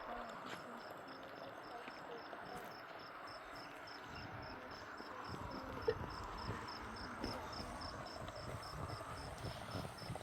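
Cricket chirping in a steady, even rhythm, about three high chirps a second, over a low background hum. A single sharp click comes about six seconds in.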